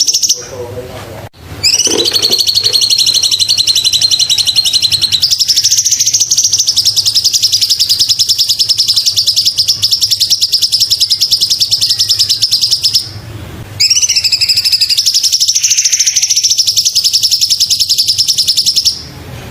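Cucak cungkok singing loudly in long, rapid chattering trills of high notes, in two long phrases with short pauses before, between and after them.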